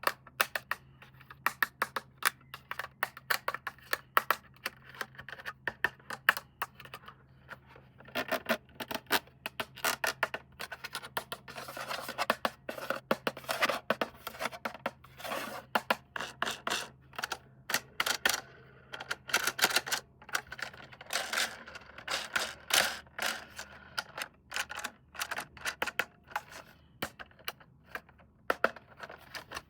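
Hands handling plastic toy parts and packaging: a dense, irregular run of clicks, taps and scratching, busier from about eight seconds in.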